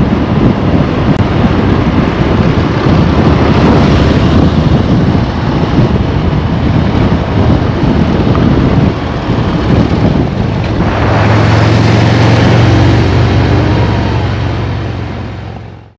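Motorcycle riding with wind rushing over the microphone and the engine rumbling underneath. About eleven seconds in, the wind noise drops and a steady low engine hum takes over, then fades out near the end.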